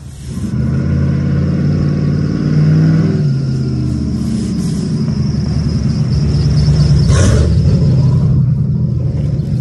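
Truck engine running, coming in suddenly about half a second in. It rises in pitch around the third second as it revs, then holds fairly steady.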